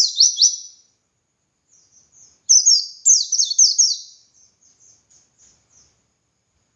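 Pleci (white-eye) singing its ngalas song: quick, high, twittering runs of falling notes. There are two loud phrases about two seconds apart, each trailing off into softer notes.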